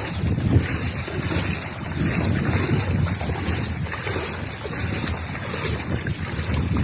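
Steady rush of floodwater with wind buffeting the microphone in uneven low gusts.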